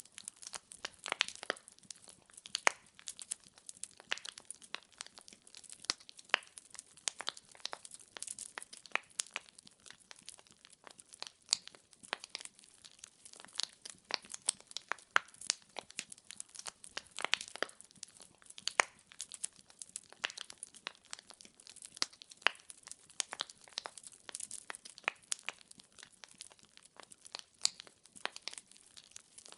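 Wood fire in a fireplace crackling: irregular sharp pops and snaps of burning firewood, several a second, over a faint soft hiss.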